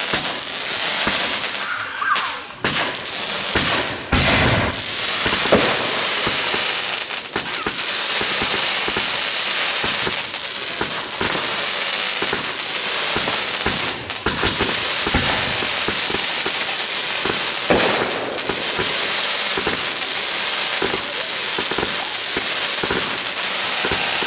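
Fireworks crackling without a break: a dense stream of small pops over a hiss, with a few louder pops about four seconds in and again near the end.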